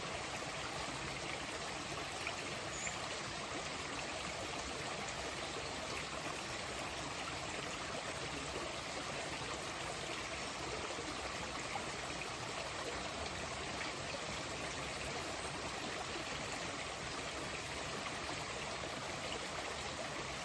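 Running water flowing steadily, an even continuous rush with no break or change.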